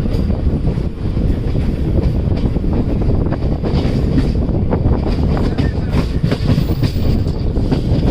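Moving passenger train heard from on board: a steady low rumble of the coaches running on the track, with rattling clicks of the wheels over rail joints.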